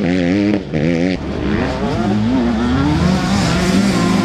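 Several MX2 motocross bikes racing, their engines revving up and down over and over as the riders work the throttle, the engine notes overlapping. The sound dips briefly about a second in.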